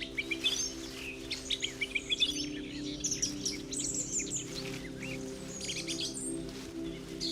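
Songbirds chirping and singing in rapid short notes, busiest in the first two to three seconds, over a low steady drone.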